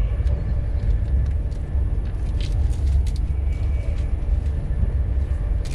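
Steady low rumble of a train carriage in motion, heard from inside, with a few faint crackles as a paper food wrapper is handled.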